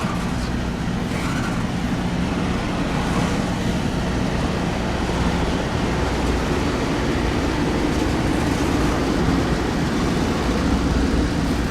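Steady low rumble of a large vehicle's engine, with a constant hum and no clear changes.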